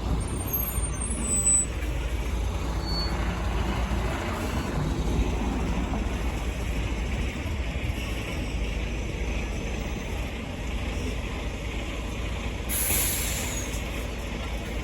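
Diesel bus engine running with a steady low rumble, and a short sharp hiss of its air brakes near the end.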